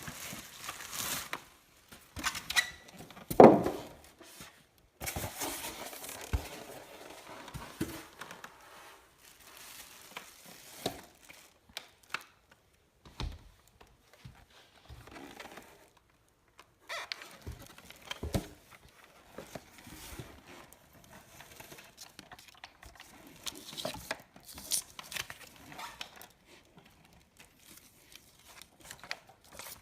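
Irregular handling noises: crinkling and tearing of wrapping with scattered knocks, and one sharp knock about three and a half seconds in that is the loudest sound.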